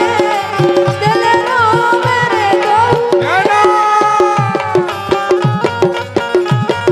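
Bundeli Rai folk music: an instrumental passage with a wavering lead melody over a steady, evenly repeating hand-drum rhythm. About three seconds in the melody changes to long held notes.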